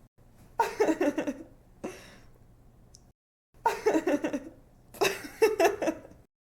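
A young woman laughing in quick bursts of giggles, several rounds in a row with a brief dead-silent gap in the middle, cutting off to silence near the end.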